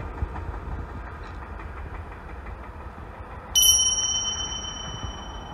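Low, steady rumble of a train running away along the track. About three and a half seconds in, a single bright chime rings out sharply and slowly fades, louder than the train.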